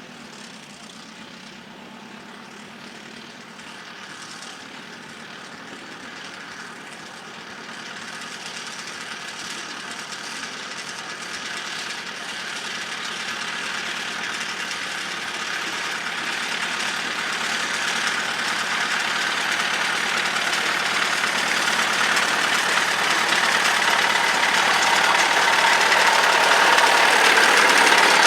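Tractor engine running, growing steadily louder throughout as it draws closer.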